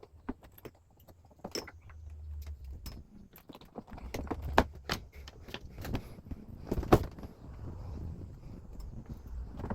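Irregular clicks, clacks and knocks of hard parts being handled, over a low rumble, with a few sharper knocks, the loudest about seven seconds in.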